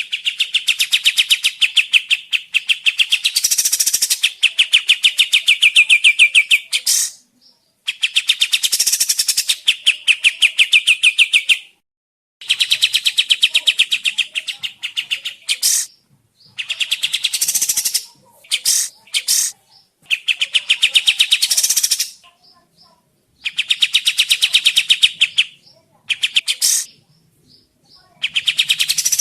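Kapas tembak bulbul singing a fast, rattling trill of rapidly repeated notes in bouts of about three to four seconds, separated by short pauses, with a few short sharp calls between bouts.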